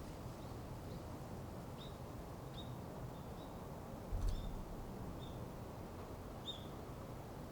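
A small garden songbird giving short, high call notes, one at a time at irregular intervals, about eight in all. A low thump sounds about four seconds in.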